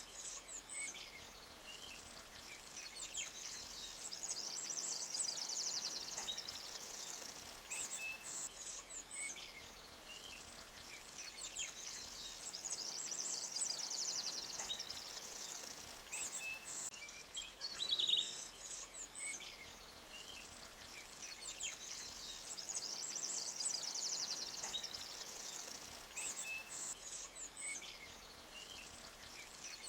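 Forest ambience: birds chirping over a high-pitched trilling chorus that swells and fades roughly every ten seconds, with a faint steady background hiss. Short, louder chirps stand out at about eight and eighteen seconds in.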